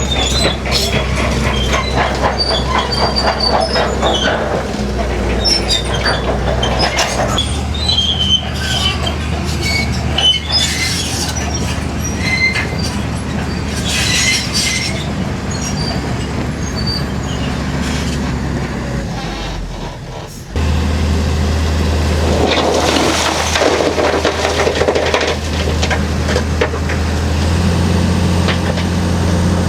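Crawler bulldozer pushing rock: its diesel engine runs steadily under load while the steel tracks squeal and clank. About two-thirds of the way through the engine note dips briefly, then picks up again stronger.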